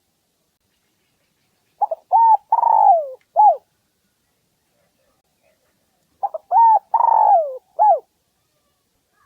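Spotted dove cooing: two phrases of four or five coos each, one about two seconds in and another about six seconds in, each with a long falling note in the middle.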